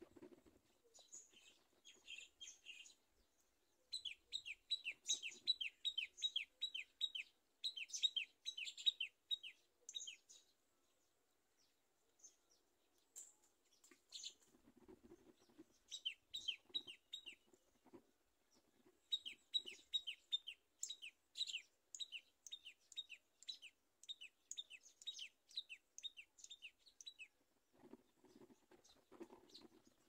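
A bird chirping in quick series of short, downward-sliding chirps, several a second, in four bouts with pauses between.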